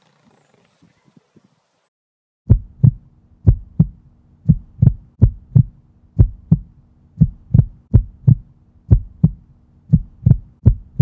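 Heartbeat sound effect: loud paired lub-dub thumps, about one pair a second, over a steady low hum, starting about two and a half seconds in after a few faint low sounds.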